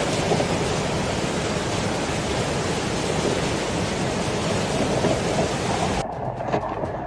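Heavy rain coming down in a steady, dense hiss. About six seconds in it cuts off abruptly, giving way to a quieter sound with scattered sharp clicks.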